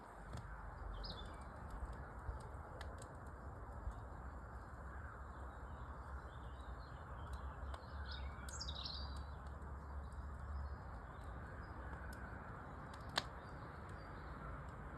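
Wood fire in a fireplace crackling steadily with small pops, and a sharper pop near the end. Birds chirp a few times over it, most clearly a quick falling chirp about eight and a half seconds in.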